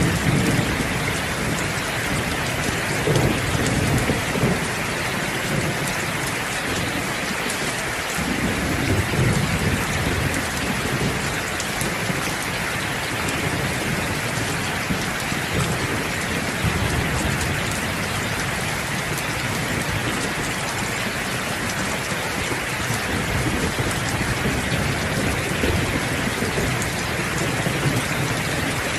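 Steady rainfall, a dense even hiss of drops, with low rolls of thunder rumbling up now and then: about three seconds in, around nine seconds, and a few more times later on.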